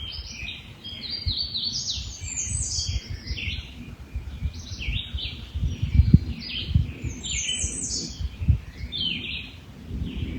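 Songbirds singing in a continuous spring chorus of rapid, overlapping chirps and trills, with a few low thumps about the middle.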